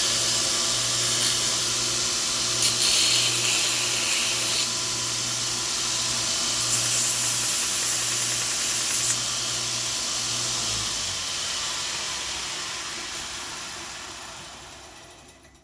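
Belt sander running while elk antler is ground on the belt, with two stretches of harsher grinding as the antler is pressed in. The sander is switched off about eleven seconds in, and the belt winds down and fades out near the end.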